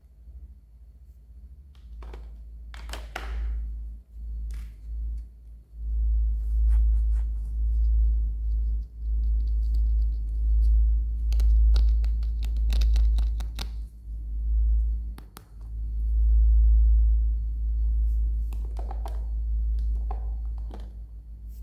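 Close-miked handling of a toy and its packaging: scattered clicks, taps and crinkly scratches over a strong, deep rumble.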